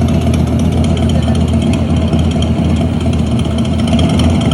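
Motorbike roller coaster vehicle rolling slowly along the track with a steady, loud, engine-like low rumble.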